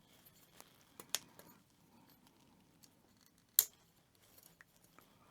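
Hobby nippers snipping plastic model-kit parts off the runner: a few sharp clicks, one just after a second in and the loudest about three and a half seconds in.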